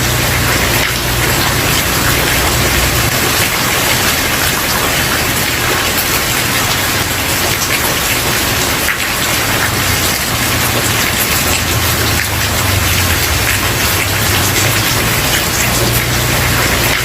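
Steady rain falling on a wooden porch: a dense, even hiss scattered with the taps of single drops. A low rumble underneath swells and fades.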